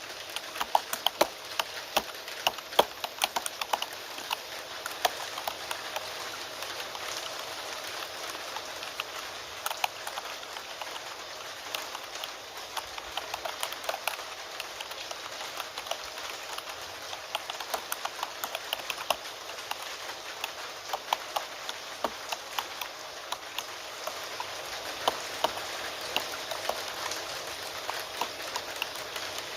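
Computer keyboard typing, an irregular run of quick key clicks, over a steady hiss of rain.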